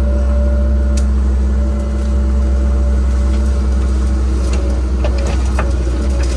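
Cat 306 mini excavator's diesel engine running steadily under work, with a few sharp clicks and cracks, mostly in the second half.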